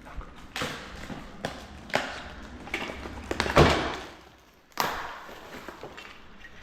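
A series of knocks and thuds, like objects being handled and set down, with the loudest thud about three and a half seconds in and another sharp knock a little over a second later.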